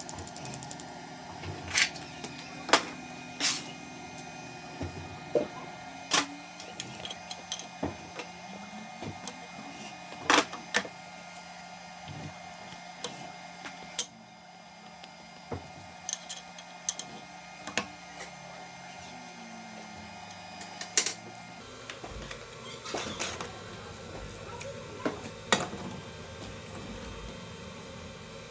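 A steady machine hum with irregular sharp clicks and knocks scattered over it, about twenty in all; the hum changes character about three-quarters of the way through.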